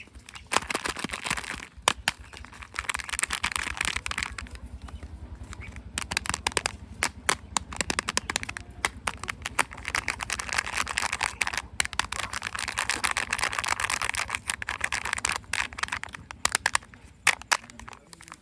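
Plastic wrappers and packaging crinkling and rustling, broken by many sharp clicks and cracks as toy and candy eggs are opened by hand.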